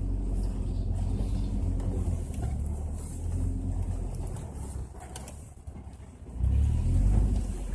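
Off-road vehicle's engine pulling along a trail, easing off about five seconds in and then revving up louder near the end.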